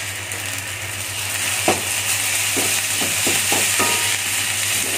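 Fried rice sizzling in a metal wok while a wooden spatula stirs it, with a series of short scraping knocks of the spatula against the wok from a little under two seconds in.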